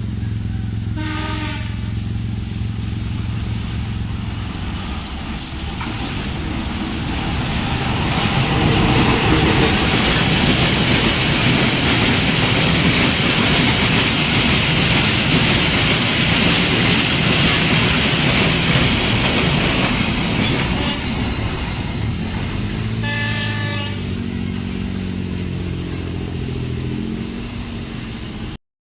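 Diesel-hauled passenger train passing close by: a short horn blast about a second in over the locomotive's engine, then loud wheel and carriage noise for about twelve seconds, and a second horn blast about a second long, a few seconds after the carriages pass.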